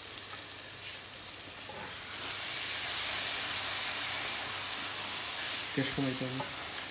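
Prawn curry sizzling and frying in an aluminium pan, stirred with a wooden spatula; the sizzle grows louder about two seconds in.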